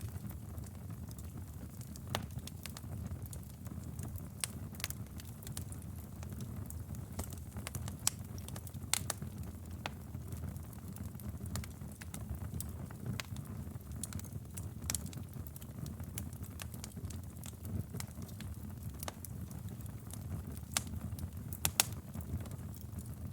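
Wood fire burning in a fireplace: a steady low rumble of flames with sharp, irregular crackles and pops, a few louder ones scattered through.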